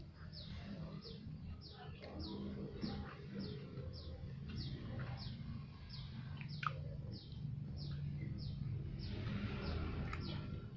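A bird repeating a short, high, falling chirp about two to three times a second, over a low steady hum, with a few sharp clicks.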